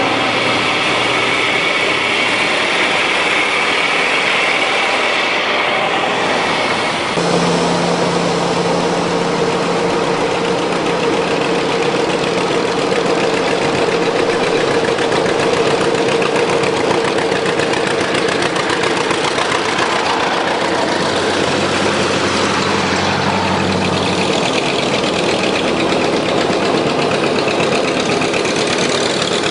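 Antique farm tractor engines running steadily, the engine note changing abruptly about seven seconds in and again near the end.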